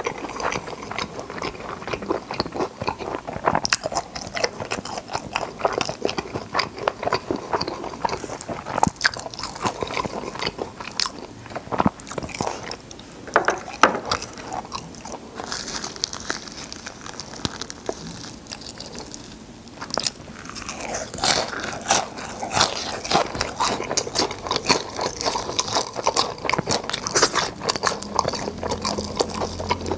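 Crispy fried chicken drumsticks being bitten and chewed close to the microphone: a continuous run of crunchy bites, crackles and wet chewing.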